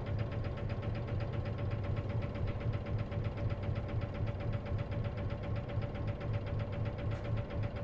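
Isuzu KC-LV380N city bus's diesel engine running steadily, heard from inside the cabin, with a low hum and a fast, even pulsing. This bus is known for an unusual mechanical noise that the recorder suspects may come from its manual transmission.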